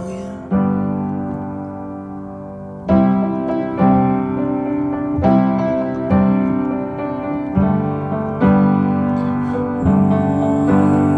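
Piano music without singing: sustained chords struck roughly once every second or so, each decaying before the next.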